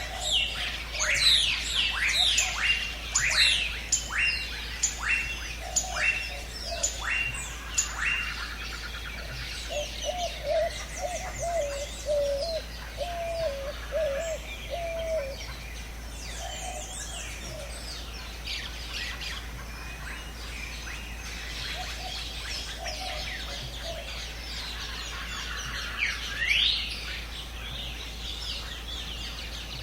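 A chorus of jungle birds calling. A rapid series of sharp, falling whistles, about two a second, comes in the first eight seconds. A lower warbling call follows for about five seconds, over constant higher chirping.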